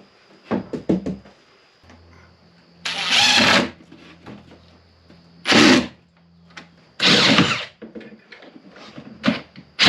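Power drill running in several short bursts of under a second each, with small clicks and knocks between them.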